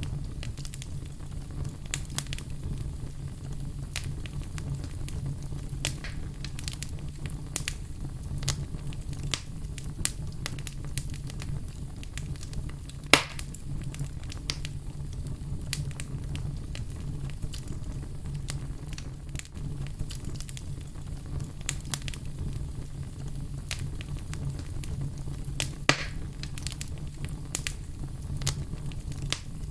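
Wood fire crackling and popping, with a steady low rumble of the burning and frequent sharp snaps, two louder pops about halfway through and near the end.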